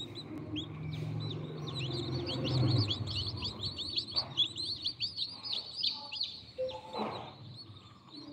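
A group of newly hatched chicks peeping continuously: quick, high, downward-slurred chirps overlapping one another, with a low hum under the first three seconds.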